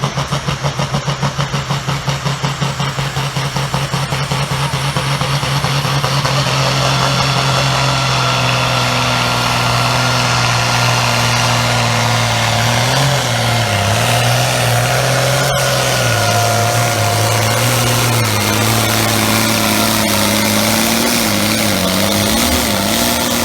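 Competition pulling tractor's engine under load. It pulses at first, then runs at high revs, climbing slowly to a steady pitch, and the revs waver up and down in the second half.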